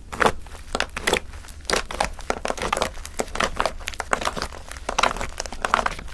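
Fluffy shaving-foam slime being squeezed and pulled by hand, with irregular crackling and popping as air pockets burst.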